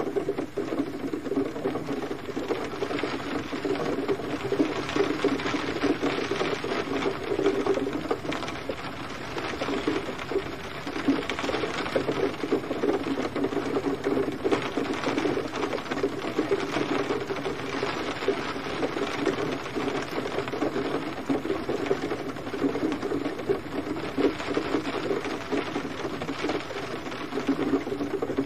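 Steady rain pattering on a surface: a dense, even tapping of many small drops.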